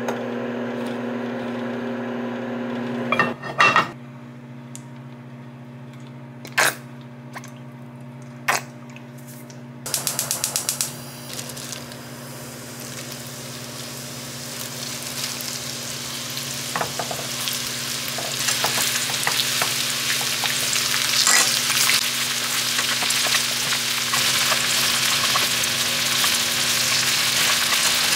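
Food frying in hot oil, the sizzle building steadily louder over the second half, over a steady low hum. Earlier, a few sharp kitchen clicks and knocks, and a quick run of clicks just before the sizzle begins.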